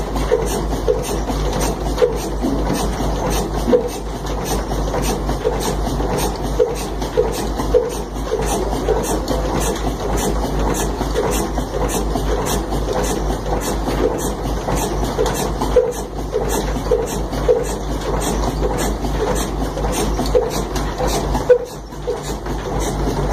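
Old Ruston 50 HP slow-speed stationary diesel engine (a Punjabi 'kala engine', rated 200 RPM) running steadily with an even, rhythmic beat.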